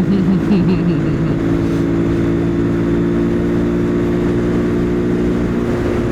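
Husqvarna Svartpilen 401 single-cylinder motorcycle engine running at a steady cruising speed, with wind rushing over the helmet microphone.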